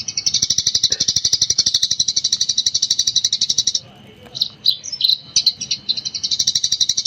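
Eurasian tree sparrow chattering in rapid-fire 'gecor' style: long trains of short, high chirps, more than ten a second. The train breaks off a little past halfway for a few separate chirps, then starts up again near the end.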